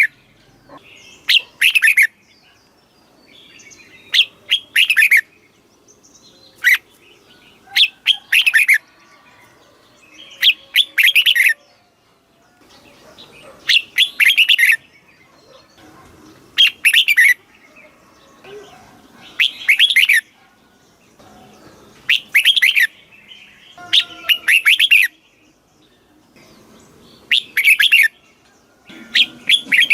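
Red-whiskered bulbul singing: short, loud, warbling phrases of quick gliding notes, repeated every two to three seconds, with faint chirps in the gaps.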